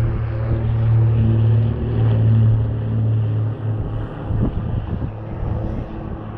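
Propeller aircraft's piston engine running with a steady low drone, easing somewhat in loudness about halfway through.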